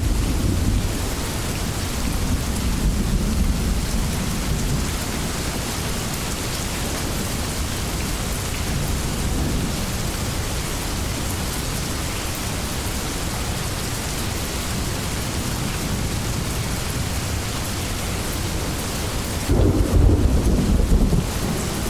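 Steady heavy rain, with a low rumble of thunder fading in the first few seconds and a louder roll of thunder about two seconds before the end.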